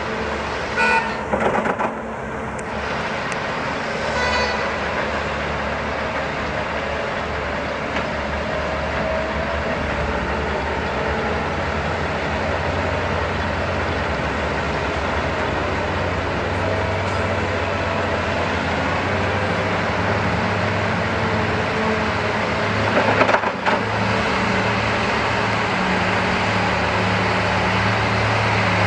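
Heavy diesel engines of trucks and construction machinery running steadily, their engine note getting louder and lower-pitched about two-thirds through as one works harder. Brief horn-like toots sound near the start, and a short louder burst comes about 23 seconds in.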